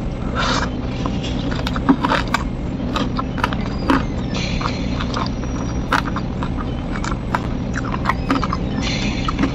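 Close-up eating sounds of someone eating rice and side dishes by hand: wet chewing with frequent sharp clicks, crackles and lip smacks. Fingers squish and scrape through the rice on the plate twice, about four seconds in and near the end. A steady low hum runs underneath.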